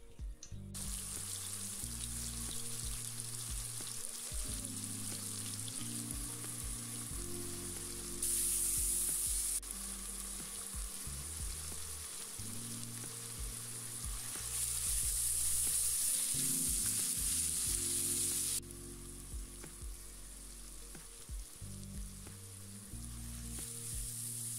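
Chopped onions, garlic paste and spices sizzling in hot oil in a non-stick pan while being stirred with a spoon. The sizzle turns louder twice, briefly about eight seconds in and for a longer stretch around the middle.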